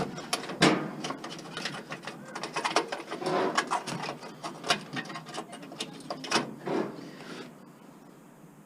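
Irregular clicking, tapping and rattling of small metal parts as a stove's joined fuse pieces are worked apart by hand for scrap, with a few sharper knocks. The sounds die down after about seven and a half seconds.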